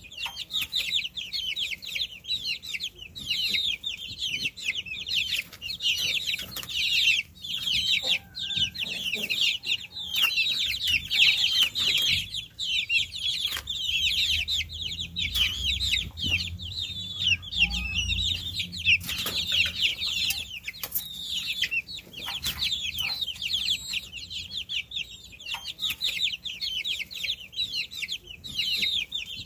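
Many baby chicks peeping at once: a constant chorus of short, high-pitched chirps overlapping one another. A faint low rumble runs underneath about halfway through.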